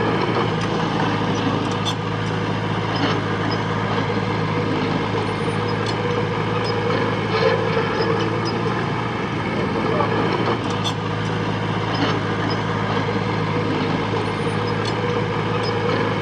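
Diesel engine of heavy earthmoving machinery running steadily, with scattered short clanks and knocks over it.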